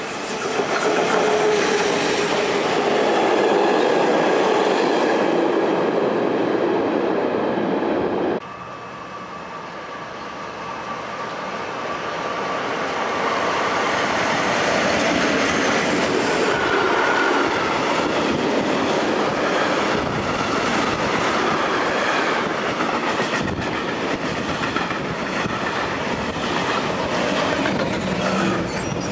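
A red SBB electric locomotive and its train pass close at speed. About 8 seconds in the sound cuts off abruptly. Then a second SBB electric locomotive hauling a long freight train of covered wagons grows louder as it approaches, and the steady rumble and rattle of its wheels on the rails carries on as the wagons roll past.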